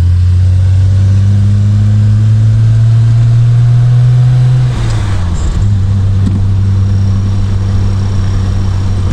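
Triumph Vitesse Mk2's 2-litre straight-six engine pulling while driving, its note rising slowly. About halfway through the note drops suddenly and settles to a lower, slightly quieter steady hum.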